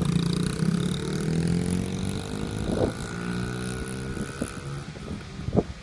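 Dirt bike engine running, its note growing steadily fainter, with a few short knocks and wind on the microphone.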